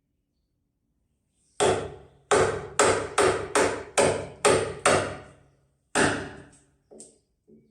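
Hammer striking wood in a run of about nine blows, roughly two a second, starting about a second and a half in, with two lighter taps near the end.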